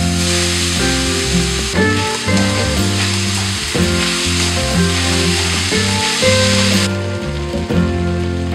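Homemade kukla noodles sizzling in a frying pan of hot oil and spices as they are tipped in and stirred with a wooden spatula; the sizzle cuts off suddenly about seven seconds in. Instrumental background music with a strong bass line plays throughout.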